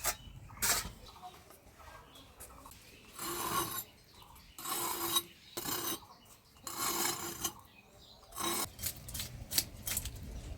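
A blade scraping food in about five separate rasping strokes, each under a second long, followed near the end by a run of quick clicks and taps.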